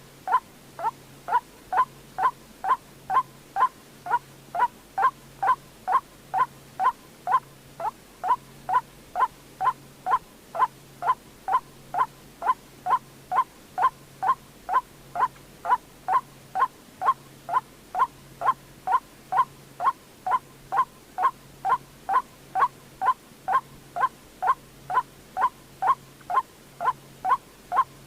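White-breasted waterhen call: a short note with a quick drop in pitch, repeated very evenly about twice a second, played as a lure for bird-trapping.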